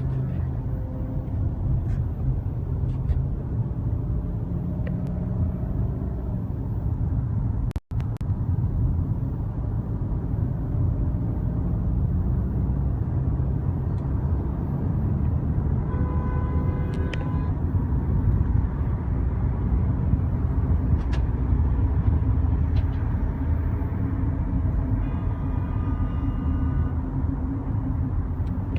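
Steady low rumble of a moving car. The sound cuts out for an instant about eight seconds in, and short pitched tones come twice, around the middle and near the end.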